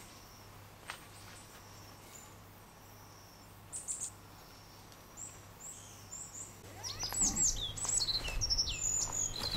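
Small songbirds calling: a few high, thin chirps at first, then a busy run of quick chirps from about seven seconds in. A faint steady low hum lies underneath.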